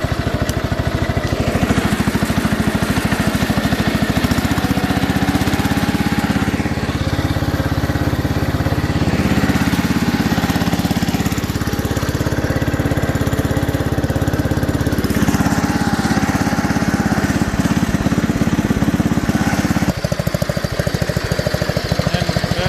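Allis-Chalmers B-110 garden tractor engine running steadily under load while the tractor drags something away, with a faint whine coming and going. About 20 seconds in the engine note drops and gets quieter.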